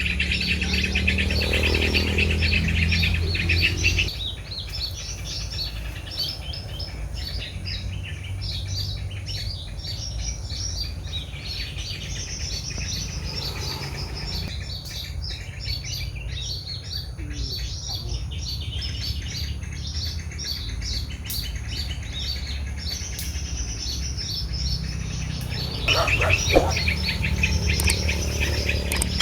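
Many small birds chirping in rapid, short, repeated calls. A low rumble swells under them in the first few seconds and again near the end.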